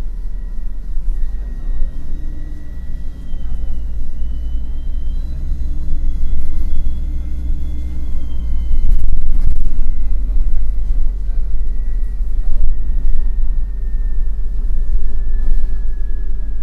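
MAN NL253 Hybrid city bus driving, heard on board: a loud, steady low rumble from the drivetrain and road, with a thin high whine that slowly falls in pitch near the end.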